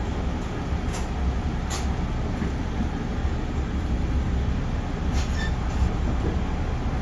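JR Central 311 series electric multiple unit running on the line, a steady low rumble heard from inside the car. A few sharp clicks sound over it, about a second in, again shortly after, and past the five-second mark.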